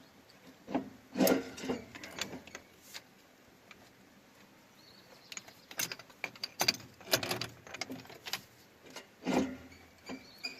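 Irregular clunking and clattering from a log skidder's failed transmission as the machine is turned over. The knocks come in uneven clusters, the loudest near the middle and one near the end, a sound the owner takes for broken gears inside the transmission.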